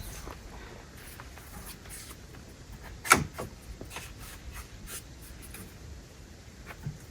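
Scattered light clicks, rustles and taps of something being handled, with one sharp knock about three seconds in.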